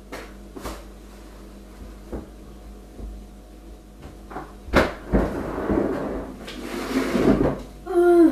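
Kitchen cupboard or drawer handling: a series of clicks and knocks, the loudest about five seconds in. Then come a couple of seconds of hissing noise and a short voiced sound near the end.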